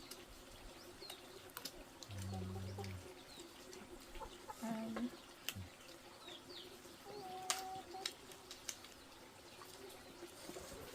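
Chickens clucking now and then, a few short calls, with scattered small clicks and knocks.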